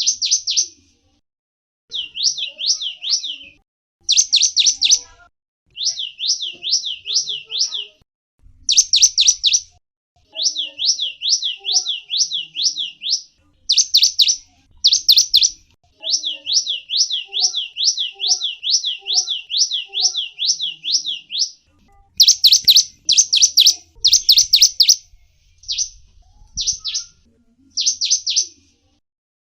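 A small songbird, the gelatik wingko, calling in phrases of sharp, high chirps, each note sweeping quickly downward and repeated about three to four times a second, with short pauses between phrases.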